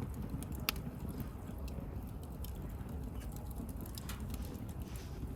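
Wood campfire burning with a low steady rumble and scattered sharp crackles and pops, the loudest pop coming just under a second in.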